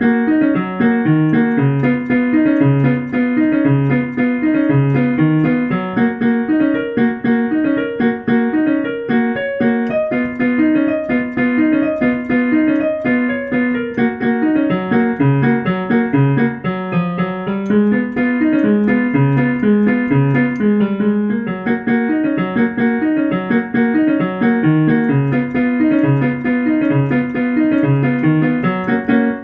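Piano playing a lively piece: a repeating low bass figure under a running melody, with the playing stopping at the very end.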